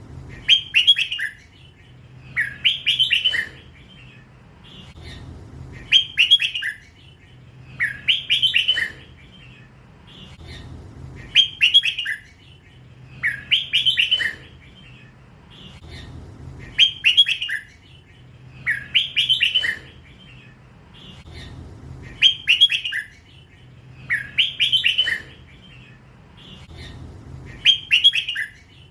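Young crossbred red-whiskered bulbul singing in the drawn-out 'lak wai' style. Each phrase is about a second of quick whistled notes, and the phrase repeats over and over, roughly every two and a half to three seconds.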